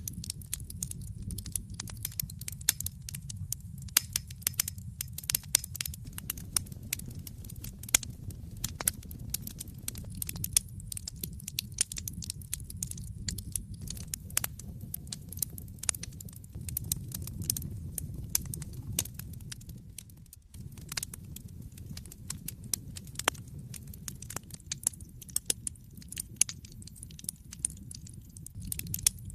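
Wood fire crackling in a fireplace: a constant scatter of sharp pops and snaps over a low steady rumble of the flames, which dips for a moment about two-thirds of the way through.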